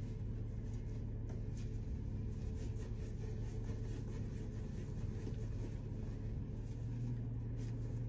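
A car's engine idling with a steady low hum, with faint rustles of baling twine being sawn back and forth against hay.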